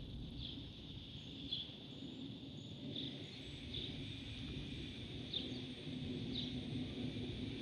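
Outdoor ambience: a bird giving short, high chirps about once a second over a steady high hiss and a low rumble.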